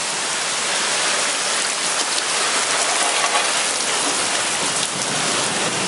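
Rain falling steadily on the ground and surfaces, a continuous even hiss.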